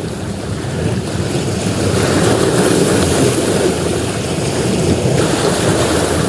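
Ocean surf breaking on a beach: a continuous wash of waves that swells about two seconds in and eases off near the end.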